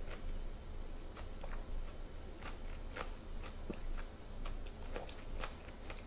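Close-miked chewing of a cabbage-leaf wrap of rice, river snails and doenjang stew solids: a quiet, irregular scatter of small mouth clicks and smacks.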